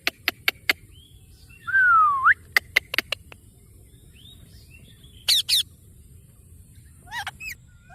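Indian ringneck parrot calling: quick, sharp chirps in a run, a whistle that falls and then rises about two seconds in, and more short squawking calls later.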